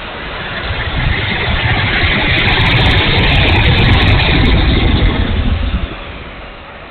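E-flite F-16's 70 mm electric ducted fan making a low pass: a rushing whine that swells over the first couple of seconds, is loudest in the middle, and fades away after about six seconds.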